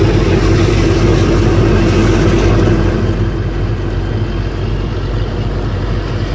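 Engine driving a sand boat's pump, running steadily under load as it pumps sand slurry; a little quieter about halfway through.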